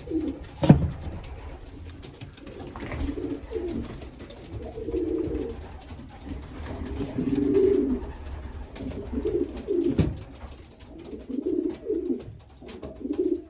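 Racing pigeons cooing over and over in low, short phrases. A sharp knock comes about a second in, the loudest sound here, and another near the end.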